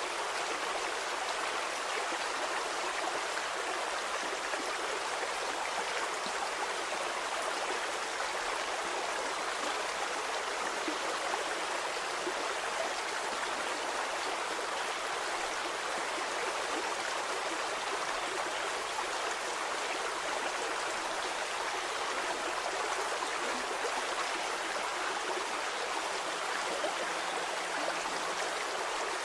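Stream water flowing steadily: an even, unbroken splashing hiss with little deep rumble.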